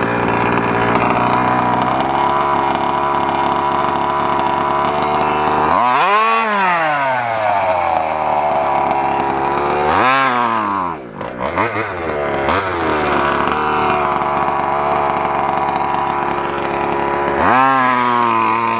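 Small 32cc two-stroke engine of a 1/5-scale FG RC truck running at high revs, revving up sharply and dropping back three times: about six seconds in, about ten seconds in, and again near the end, with a brief stutter just after the second rev.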